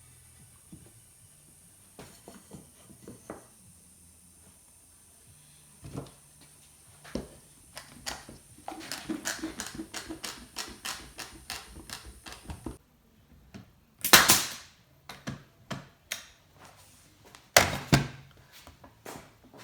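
Wooden workpieces and hand tools handled on a workbench: scattered light taps and clicks, a quick run of small taps in the middle, and two louder knocks in the second half.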